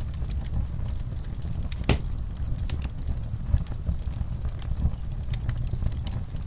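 Wood fire in a fireplace crackling, with scattered sharp pops over a low, steady rumble of the flames; one louder pop comes about two seconds in.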